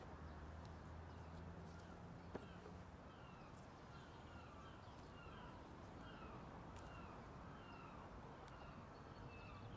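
Near-silent outdoor ambience with a bird chirping faintly in a steady series of short falling notes, and a few light clicks.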